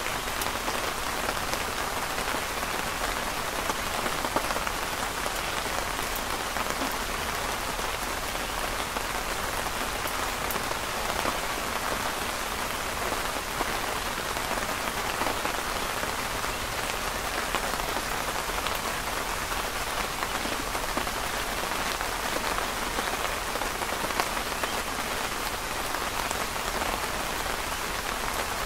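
Steady rain falling and pattering on a canopy overhead, an even hiss with scattered sharp drop ticks.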